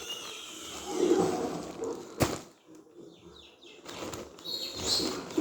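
Packaging and items being handled, with uneven rustling and one sharp click a little over two seconds in.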